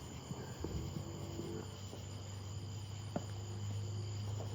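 Crickets chirping steadily in the background, over a low steady hum, with one faint sharp pop about three seconds in.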